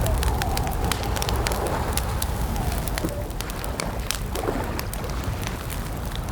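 Campfire crackling, with many sharp pops and snaps over a low steady rumble. A faint wavering whistle runs in the background and dips in pitch a little past the middle.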